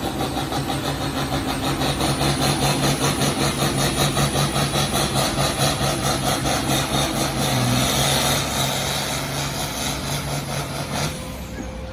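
Farm tractor engine running hard under load as it pulls the weight-transfer sled, a steady pulsing drone that drops off sharply near the end as the pull finishes.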